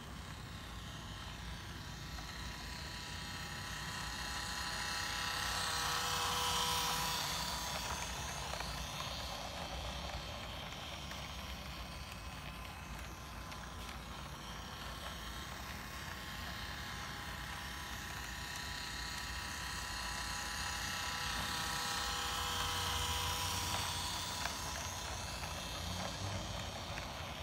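Model New York City subway A train set running on its track: the small electric motor whines over the clatter of the wheels. It swells loud as the train passes close, about six seconds in and again around twenty-three seconds.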